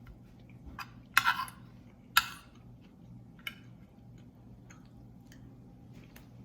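Spoon and fork clinking and scraping against a plate while eating: a short loud clatter about a second in, a sharp clink a second later, then a few fainter clicks, over a faint steady hum.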